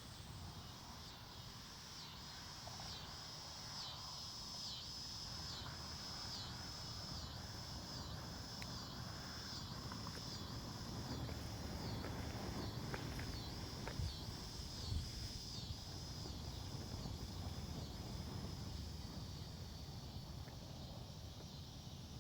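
Insects calling in a high, pulsing chorus with an even rhythm of about three pulses every two seconds, over a low rumble of wind on the microphone. Two soft knocks come about two-thirds of the way through.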